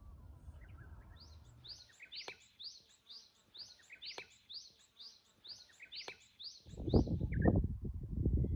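Japanese bush warbler calling a rapid run of about a dozen short, sharp, repeated high notes, two or three a second. Near the end a loud rustling noise takes over.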